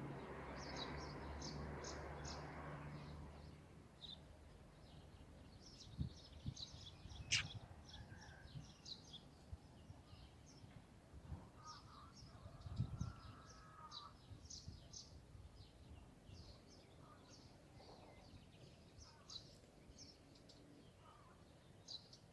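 Faint, scattered short high chirps of small birds, with a low rumble that fades out a few seconds in and a few soft knocks.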